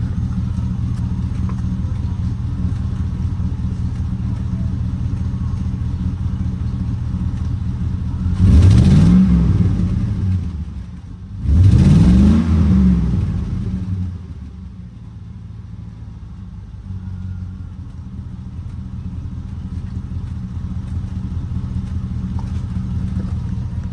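A truck's 4.8-litre LS V8 runs steadily while driving, then revs up twice in quick succession, about a third and half of the way in. The pitch climbs and drops back each time, as under acceleration. The engine is quieter afterwards. With the exhaust leak freshly repaired, the owner says it still runs a little weird and throws a check engine light he puts down to misfires.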